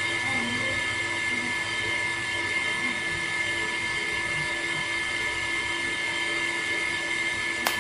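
A small electric motor whining steadily at a constant speed, with a sharp click near the end.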